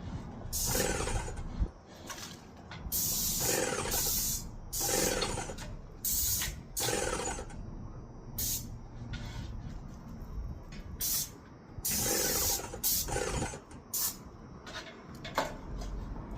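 Paint spray gun hissing in repeated short bursts, each about half a second to a second long, with a low wind rumble underneath.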